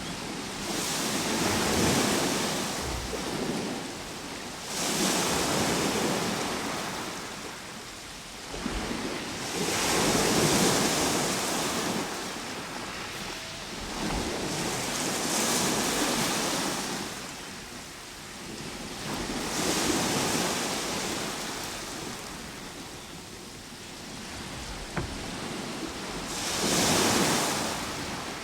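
Ocean waves breaking and washing up the shore, a rush of surf that swells and fades about six times, every four to six seconds.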